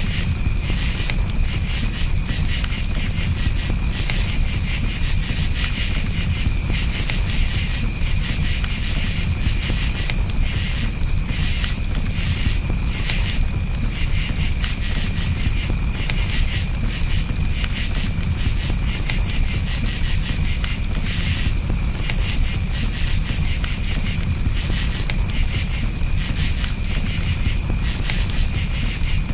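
Crickets chirping continuously in a quick pulsing rhythm over the low rumble of a campfire, with scattered small crackles.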